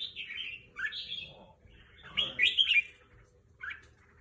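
Red-whiskered bulbul singing: short, quickly warbled phrases. There are four in all, and the loudest comes a little after two seconds in.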